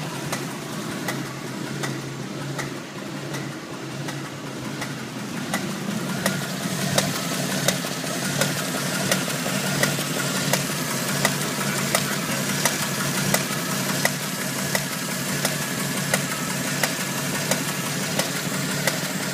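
Jeep CJ7 engine running with a sharp, regular knock, about three knocks every two seconds, that grows louder and clearer partway through.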